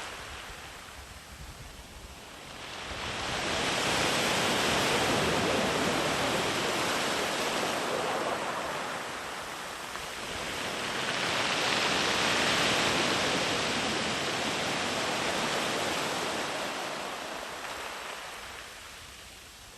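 Sea waves breaking and washing far up the beach in long, gentle surges: the surf swells about three seconds in, eases, swells again about eleven seconds in, then fades away.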